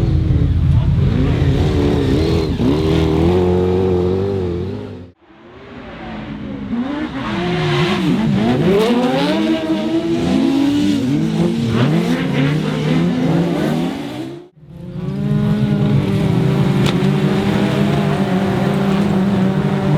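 Autograss race car engines revving hard and easing off, their pitch rising and falling repeatedly, with overlapping engines in the middle section. The sound breaks off abruptly twice, about five and fifteen seconds in.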